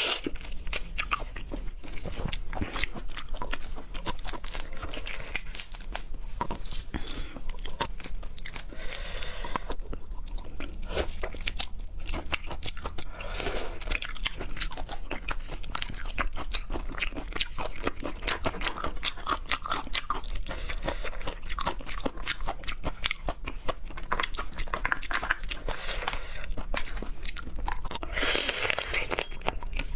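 Close-miked crunching and chewing of seafood, with dense, sharp crackles running on throughout.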